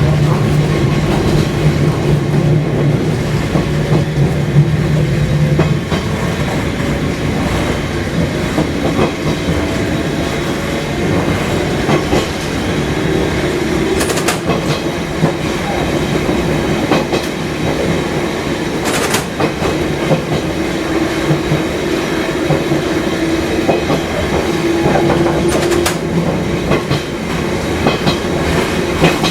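Fukui Railway 200-series electric railcar running on the line, with wheels clacking over rail joints. A steady low hum stops about six seconds in, and a few sharp clicks come later.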